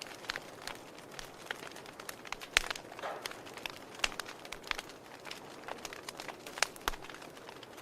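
Wood logs burning in a fireplace, crackling and popping irregularly over a soft hiss of the flames, with a few sharper pops.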